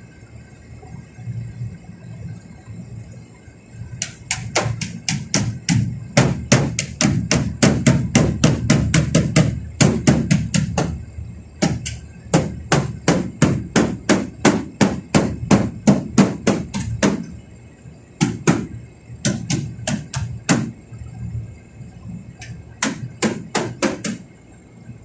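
Fast hammering, about four blows a second, in several runs with short pauses between them, starting about four seconds in. A steady low hum runs underneath.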